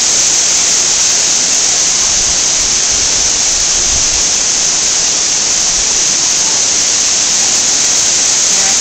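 Amicalola Falls waterfall rushing: a loud, steady hiss of falling water.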